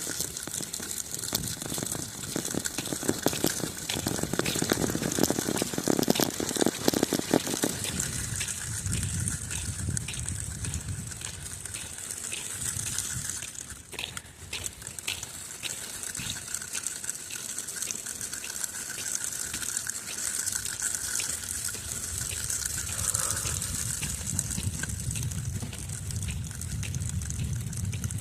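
Strong wind rushing and buffeting across the microphone, with runs of regular crunching clicks underneath.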